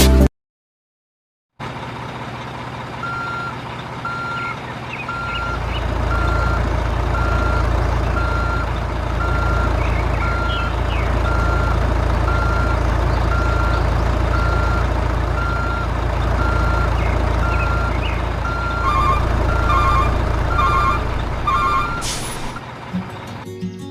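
Truck engine running with a reversing alarm beeping steadily, one beep about every 0.8 seconds, after a second and a half of silence. Near the end a second, higher beeping joins in.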